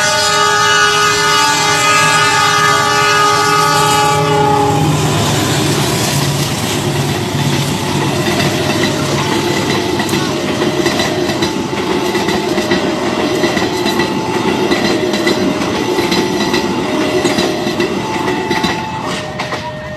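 A train sounds a long multi-tone horn for about the first four seconds, then passes with a rushing clatter of wheels on rails. Throughout the pass, a two-tone warning signal alternates about once a second, as at a railway level crossing.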